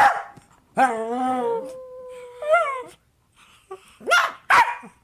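Dogs howling in long drawn-out calls, one holding a steady note while another rises over it, then a few short sharp barks near the end.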